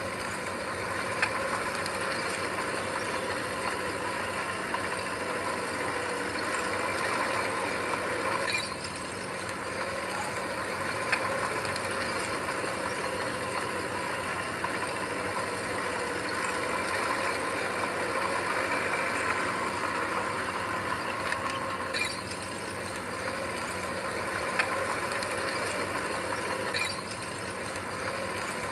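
Heavy earthmoving machine, a bulldozer, running steadily with metallic clanking and clattering, with a few sharper clanks.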